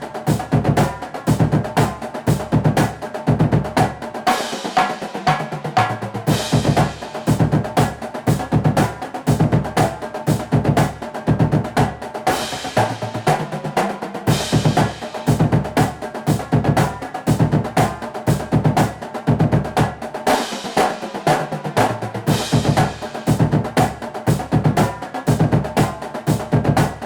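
Background music: a drum-heavy track with a fast, steady beat.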